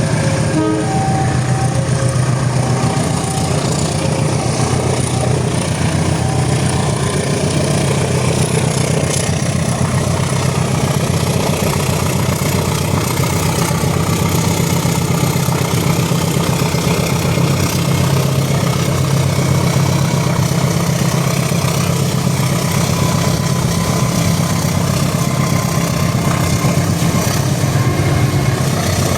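A moving train running with a steady, loud rumble and drone throughout.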